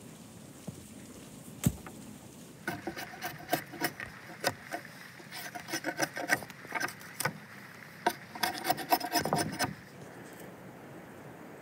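Knife blade stripping bark from a freshly cut branch: a sharp crack, then a run of irregular short scraping strokes that stop just before the end.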